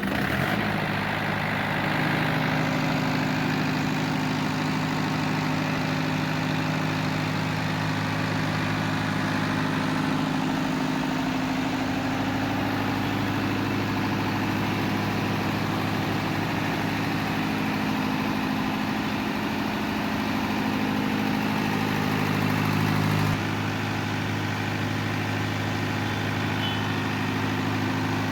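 30 kVA diesel generator set's Tata engine running at a steady idle just after starting. It gets a little quieter and its note changes slightly about three-quarters of the way through.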